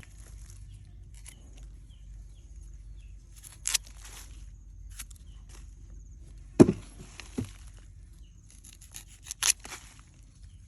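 Hands-on taro harvesting work: scattered rustling and clicking, with a sharp dull thump about six and a half seconds in, a second smaller one just after, and a cluster of knocks near the end. A faint, steady, high-pitched whine runs underneath.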